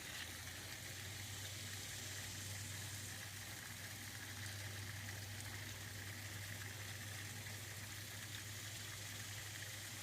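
Steady background hiss with an even low hum underneath, unchanging throughout, with no distinct events.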